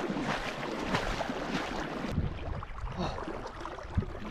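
Water splashing and sloshing around a person moving in the water, in irregular bursts; about two seconds in the sound turns duller as the high end drops away.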